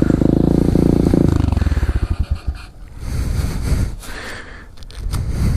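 SSR125 pit bike's single-cylinder four-stroke engine idling, then slowing and dying out about a second and a half in as it is shut off. After that come quieter breaths and handling noise.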